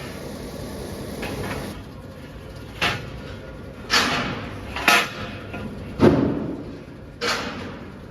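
Five sharp metal clanks about a second apart, irregularly spaced, each ringing briefly, over steady workshop background noise.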